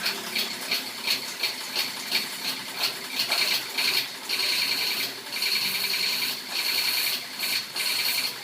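High-pressure water spray hissing, with a high whine: it pulses about two to three times a second at first, then runs steadier with a few short breaks.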